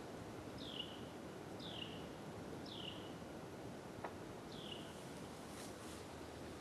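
A songbird calling four short whistled notes that slide downward, roughly a second apart, over a faint steady outdoor hiss. A faint single click comes about four seconds in.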